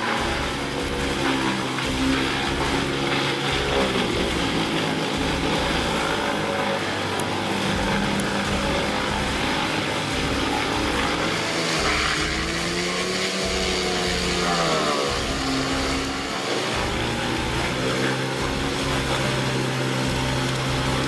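A large wood chipper running under load, its engine note sagging and recovering partway through as it takes wood, over a choppy low rumble.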